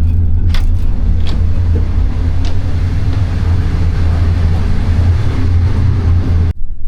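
Moving passenger train heard from inside: a loud, steady low rumble and running noise, with a few sharp clicks in the first seconds. It cuts off suddenly near the end.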